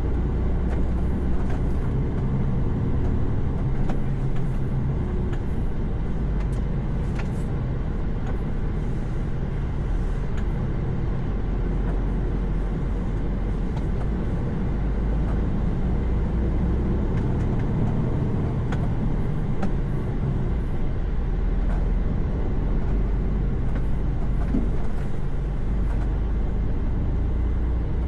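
Heavy truck's diesel engine running steadily at cruising speed, with a low rumble and tyre and road noise, no gear changes or sudden sounds.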